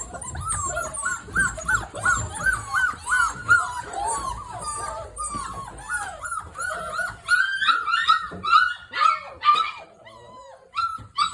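Six-week-old Boerboel puppies whining and yipping in a rapid run of short, high calls that thin out near the end.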